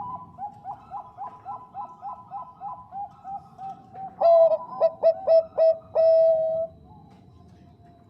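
Zebra dove (perkutut bangkok) singing: a quick, even run of short soft coos, then about four seconds in a louder phrase of clipped stuttering notes running into a long coo.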